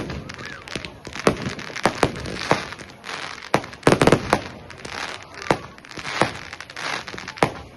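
Fireworks going off: about a dozen sharp bangs and cracks at irregular intervals, bunched together around four seconds in.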